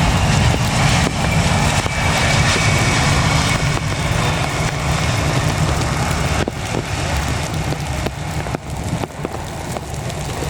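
Jet airliner's engines running: a heavy low rumble with a faint high whine, growing gradually quieter over the last few seconds.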